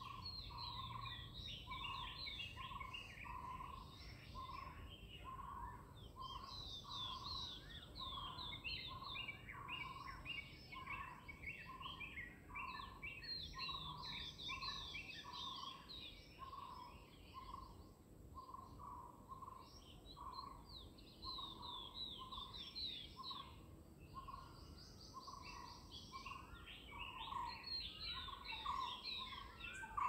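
Birdsong: one bird repeats a short single note at an even pace, about one and a half times a second, while other small birds sing quick high chirping phrases over it.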